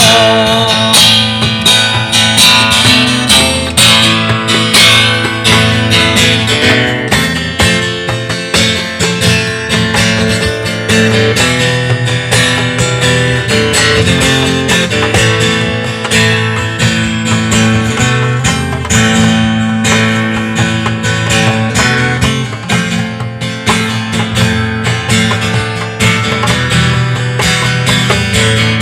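Acoustic guitar strummed steadily in chords, an instrumental break between sung verses of a song.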